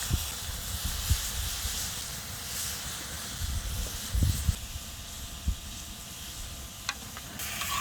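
Beef intestines and heart sizzling steadily in their own fat on a cauldron lid over a wood fire, with a few low thumps now and then.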